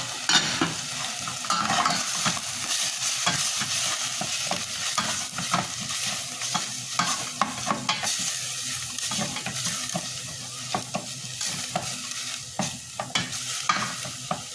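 Chicken sizzling in a pan while being stirred, with a cooking utensil scraping and clicking against the pan many times over a steady frying hiss.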